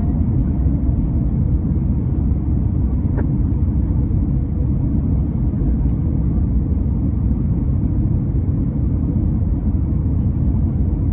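Steady low rumble of an Airbus A321neo airliner's cabin in flight: engine and airflow noise heard from a window seat, unchanging throughout, with a faint click about three seconds in.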